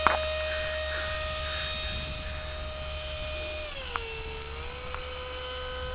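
Electric ducted fan of a radio-controlled Eurofighter model jet whining steadily in flight. Its pitch drops a little about four seconds in, then holds there.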